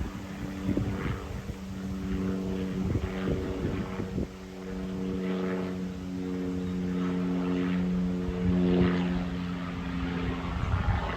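Propeller airplane flying past: a steady engine-and-prop drone whose pitch steps down slightly about halfway through, with wind gusting on the microphone.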